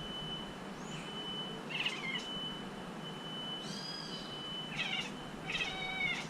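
A Bengal cat giving short meows, about four separate calls, one of them a longer gliding call near the middle.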